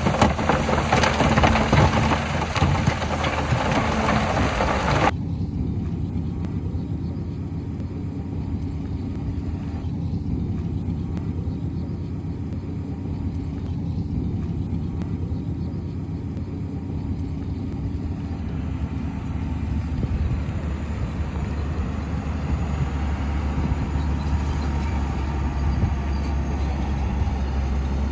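A loud, harsh noise fills about the first five seconds and cuts off abruptly. A steady low diesel rumble from heavy earthmoving machinery follows and grows slightly louder near the end.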